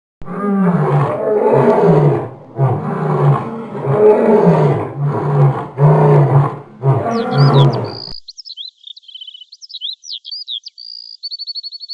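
A lion roaring: a run of deep roars and grunts that swell and fall several times over about eight seconds. Birds then chirp and trill high up for the last few seconds.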